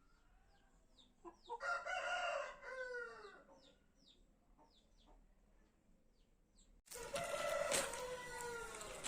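Aseel rooster crowing twice: one crow about two seconds in, falling in pitch at its end, and another starting abruptly near the end. Between them a small bird chirps repeatedly, short falling chirps about twice a second.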